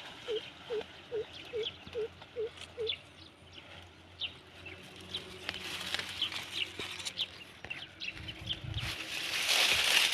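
Birds calling: a low dipping note repeated about two and a half times a second for the first three seconds, with short high chirps scattered throughout. A loud rushing noise starts near the end.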